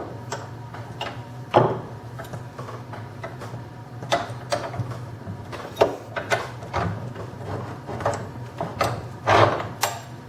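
Irregular clicks and knocks of wood and metal tools being handled and set down at a wood lathe while the workpiece is dismounted, over a low steady hum.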